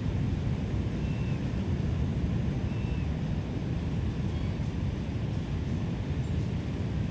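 Steady low outdoor rumble, like wind or distant surf, with a few faint short high bird chirps spaced a second or more apart.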